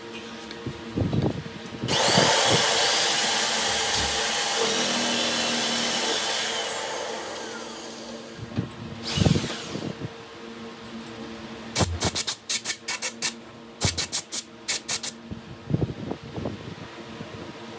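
A handheld power tool starts sharply, runs at speed for about five seconds and winds down, followed later by a quick series of short sharp bursts. A steady low hum lies underneath throughout.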